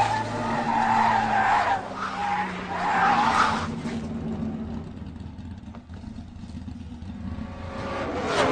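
Race car tyres screeching in a long skid, loudest and squealing in waves over the first three and a half seconds, then easing off into a quieter low rumble that builds again near the end.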